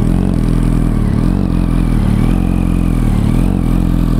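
2008 Yamaha R1's 1000cc liquid-cooled inline four-cylinder engine idling steadily, heard through what the dealer believes is an upgraded exhaust.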